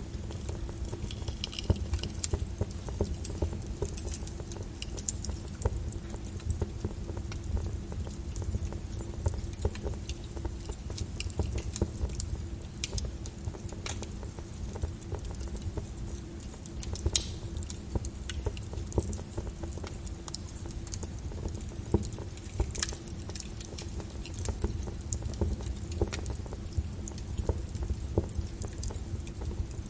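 Wood fire crackling in a fireplace: a steady low rumble of burning with irregular pops and snaps, a few sharper ones standing out.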